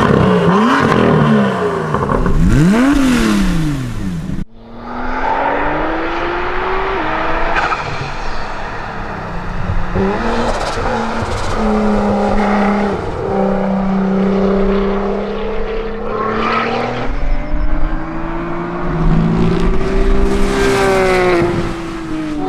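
High-performance car engines revving hard and accelerating, in clips joined by a sudden cut about four seconds in. First come quick rev blips rising and falling several times a second, then longer climbs in pitch broken by gear changes.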